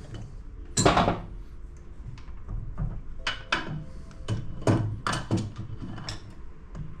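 Metal knocks and clunks as the quill of a mill-drill is worked loose and taken out of its head: one sharp knock about a second in, then a string of lighter clunks between about three and six seconds in.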